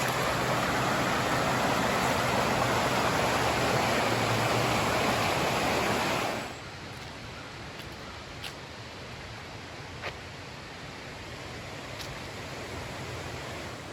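Rushing water of a mountain river, a steady loud rush that drops suddenly about six and a half seconds in to a much quieter, steady rush, with a couple of faint ticks.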